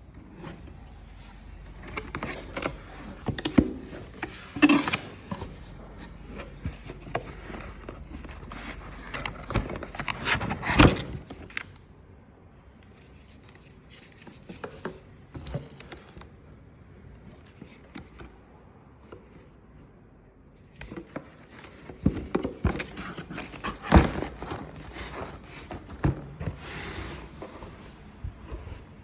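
Irregular clicks, knocks and scraping of hard objects being handled, with quieter stretches in the middle; no motor is running.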